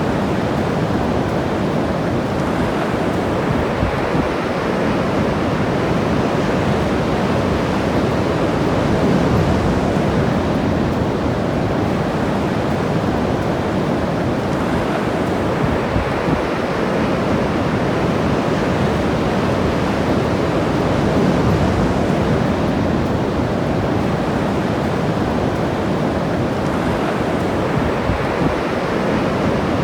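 Ocean surf washing steadily onto the beach, swelling a little louder a couple of times.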